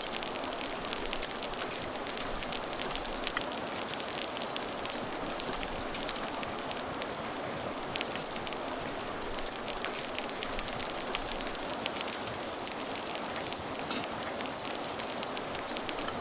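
Steady rain with a wood fire crackling: many small sharp pops over an even hiss.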